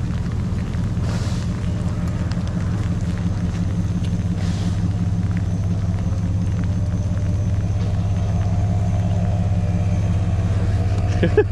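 4WD vehicle engine running, a steady low drone.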